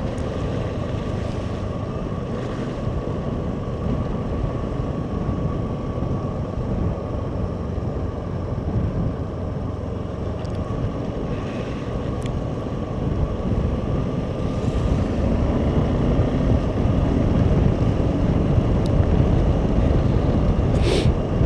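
Suzuki V-Strom SX 250's single-cylinder engine running at a steady road speed, under heavy wind noise on the microphone.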